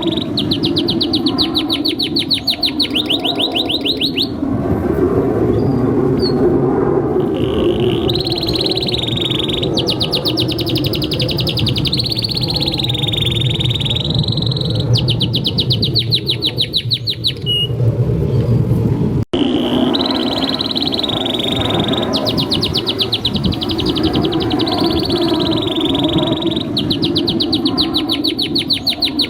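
Domestic canary singing a long, continuous song of rapid trills and fast rolls of repeated high notes, over a steady low background noise. The song breaks off for an instant about two-thirds of the way through, then starts again.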